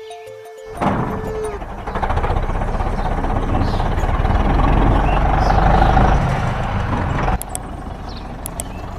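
A heavy vehicle's engine rumbles loudly, starting just under a second in and dropping to a lower level after about seven seconds.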